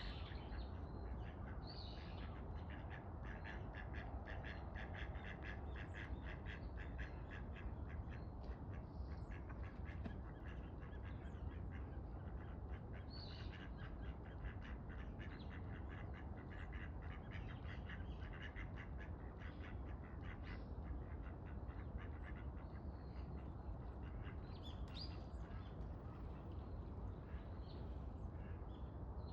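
Wild birds calling: short high calls now and then, and a fast run of clicking or chattering calls for about ten seconds from a couple of seconds in, over a steady low rumble.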